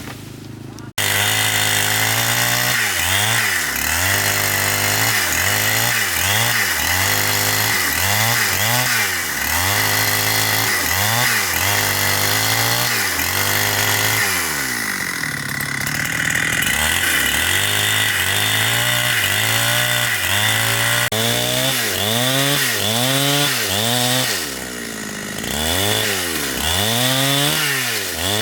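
Chainsaw running under load while cutting into wood. Its engine pitch dips and recovers about once a second as the chain bites and is eased back, starting suddenly about a second in.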